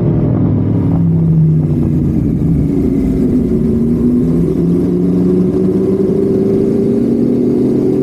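Honda Civic FD's engine pulling at highway speed. Its note dips and shifts within the first two seconds, then climbs slowly and steadily as the car accelerates.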